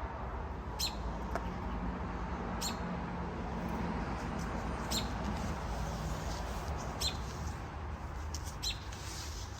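A bird's short, sharp high calls, repeated about every two seconds over a steady low rumble: a parent bird calling near its nest, taken as calling for the people to leave.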